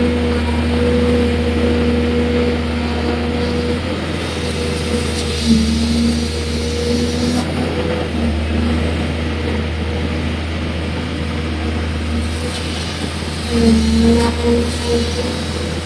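Excavator's diesel engine running steadily. A humming tone in its note drops out about four seconds in and comes back.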